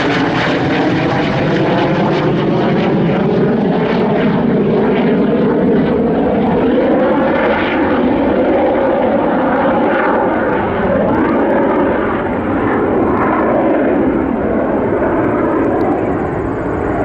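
T-38 Talon jet trainer's twin turbojets passing low and loud, a steady jet noise whose hollow tone slowly shifts as the aircraft goes by.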